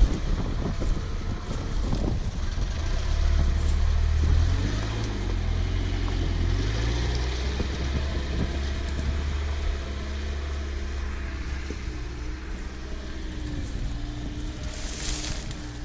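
Off-road 4x4's engine running at low revs under load, its pitch shifting slowly; stronger in the first half, then easing off. A brief hiss near the end.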